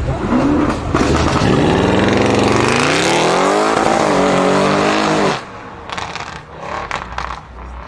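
Supercar engine accelerating hard, its loud note climbing in pitch through a couple of gear changes, then cutting away abruptly about five seconds in.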